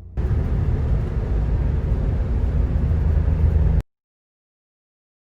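Loud steady rumble and hiss of a moving vehicle, most likely a car's road and engine noise, which cuts off abruptly shortly before the end and is followed by silence.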